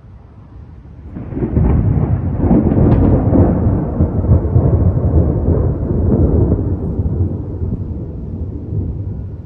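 A loud thunderclap: it breaks suddenly about a second in, rumbles heavily for several seconds, then slowly dies away.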